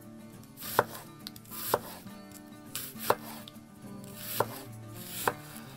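Chef's knife slicing a red onion thin on a wooden cutting board: about five sharp knocks, one each time the blade comes down through the onion onto the board, spaced roughly a second apart.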